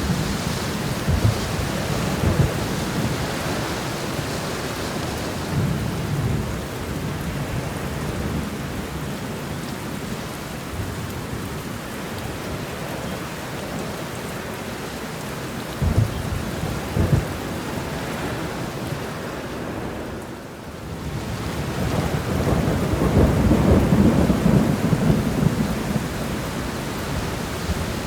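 Steady rain shower with low rumbling underneath: a few short thumps, a brief lull about three-quarters of the way in, then a swell of rumble lasting several seconds.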